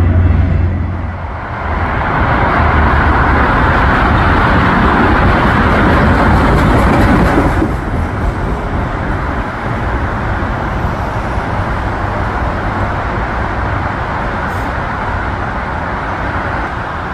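A train passing close by: a loud, steady rush of wheel and rail noise that eases off a little about halfway through.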